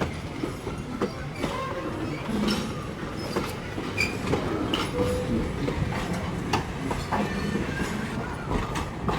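Railway passenger cars rolling along the track with a steady rumble, the wheels clicking sharply and irregularly over the rail joints.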